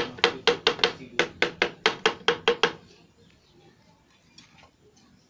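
Rapid, even tapping on wood, about five light strikes a second, which stops after nearly three seconds.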